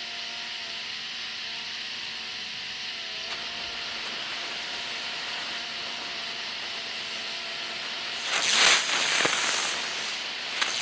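A steady hiss for about eight seconds, then a sudden loud spraying hiss with whistling streaks rising and falling in pitch, in several surges, as the fused mass of sunflower helicopter fireworks ignites and spins.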